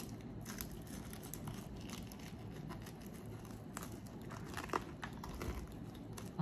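Faint crunching and wet mouth clicks of a man biting and chewing a crispy fried chicken wing close to the microphone, with a few sharper crunches about four to five and a half seconds in.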